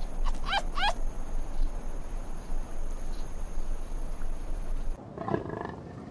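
Two short, quick sweeping animal calls over a steady rumble of wind or outdoor noise, then, about five seconds in, the sound cuts abruptly to a quieter background with a lower animal call.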